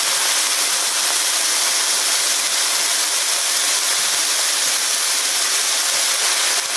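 Broccoli and onions sizzling in a very hot wok, a steady loud hiss as moisture flashes off into steam.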